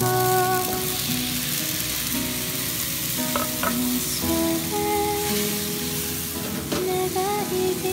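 Diced tomato chunks dropped into hot oil in a nonstick frying pan, sizzling loudly from the moment they land, while being stirred with chopsticks and tossed in the pan, with a few light clicks. Soft music plays underneath.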